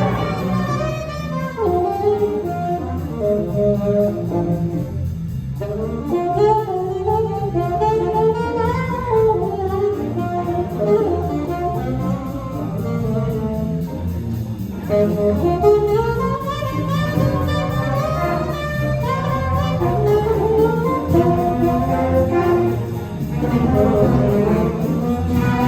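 A high school jazz big band playing live, with saxophones and brass sounding together in ensemble.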